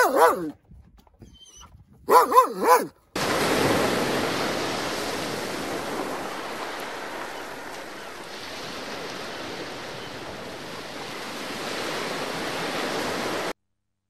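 A dog gives two short bursts of yelping barks. Then a steady rushing noise, like waves, runs for about ten seconds and cuts off suddenly.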